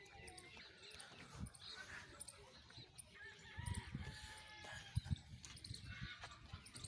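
Faint bird calls, likely farmyard fowl, with scattered dull low thumps, a cluster of them in the second half.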